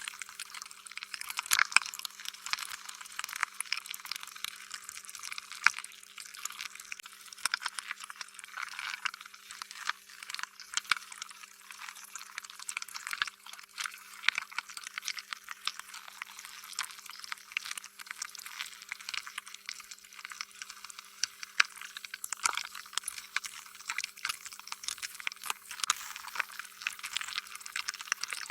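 Slime being squished and kneaded, giving a continuous stream of irregular wet, sticky crackles and pops.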